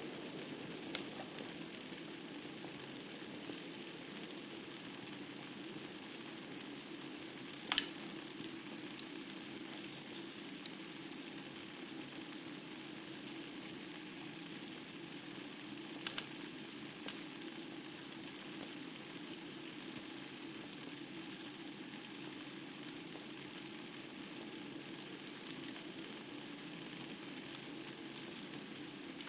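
Wood fire burning in a fireplace: a steady soft hiss with scattered sharp crackles and pops. The loudest pop comes about eight seconds in, and a quick pair follows around sixteen seconds.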